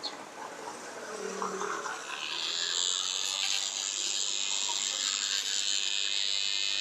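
Electric fan motor whirring, a steady high-pitched rush that comes up about two seconds in and holds.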